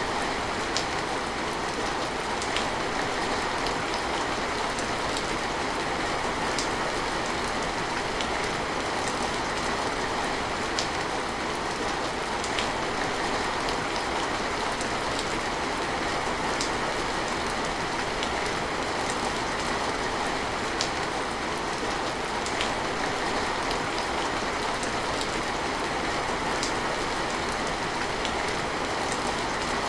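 Steady rain falling, with single louder drops striking about every two seconds.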